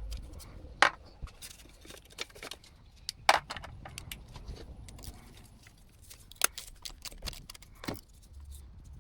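Metal hand tools clinking and knocking against the starter's bolts and fittings: irregular sharp metallic clicks, with louder clanks about a second in, a little after three seconds, and twice between six and eight seconds.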